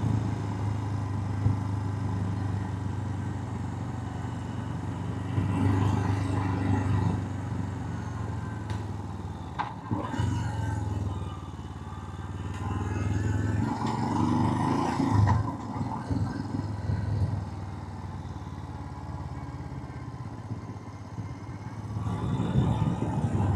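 Motorcycle engine running on the move, with wind noise on a sensitive clip-on microphone. The sound swells louder a few times, about 6, 14 and 22 seconds in.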